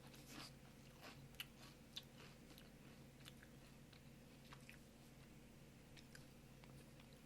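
Faint crunching and chewing of a Pringles potato crisp, a scatter of small crackles, over a steady low hum.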